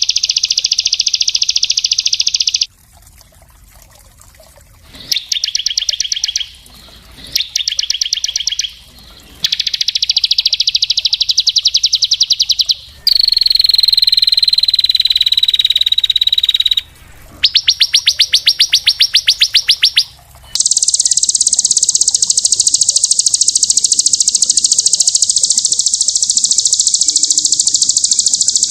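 Small songbird's very fast, dense trilling song, the rapid 'tembakan speed rapat' style used as masteran for training other songbirds. Bursts of quick repeated notes are broken by short gaps, with a clear downward-sliding whistle around the middle. About two-thirds of the way through comes one long unbroken trill. The abrupt starts and stops mark an edited recording.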